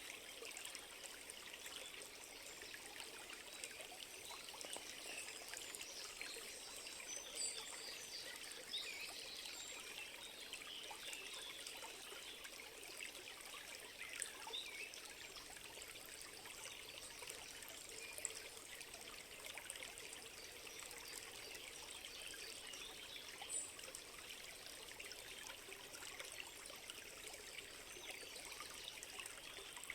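A small stream trickling and babbling steadily, a fine, even splashing of running water.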